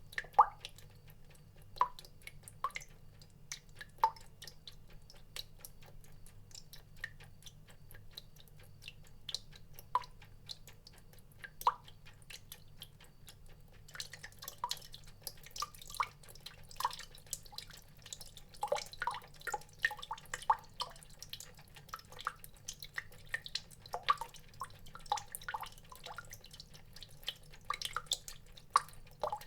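Water drops dripping in an irregular patter of short plinks, sparse at first and much busier from about halfway through, over a faint steady low hum.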